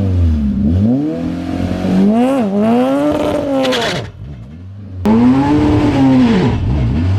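Honda-swapped pro truck's engine revving hard through the gears, its pitch climbing and dropping back at each shift. It cuts off suddenly about four seconds in, and a second later comes back abruptly with another rise and fall.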